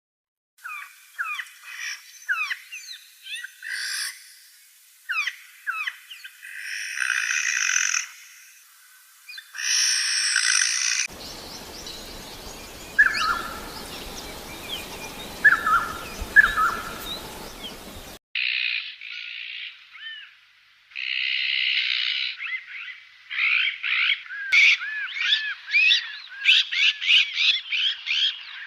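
A series of different bird calls and songs, joined by abrupt cuts: quick sweeping chirps and buzzy notes, a stretch of a few calls over a steady hiss, then fast repeated song phrases near the end.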